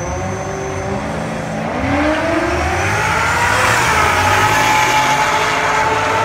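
1998 Ford Mustang Cobra's 4.6-litre DOHC V8 at full throttle on a drag-strip pass. Its pitch climbs steadily, drops once about three and a half seconds in at an upshift, then climbs again as the car pulls away.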